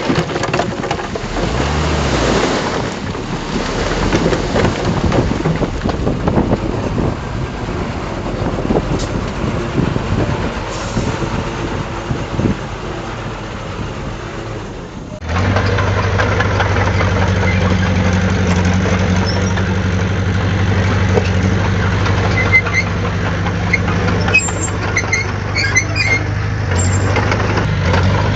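Heavy diesel earthmoving machinery working, a rough, noisy engine sound. About halfway through it switches abruptly to a steady low diesel engine drone.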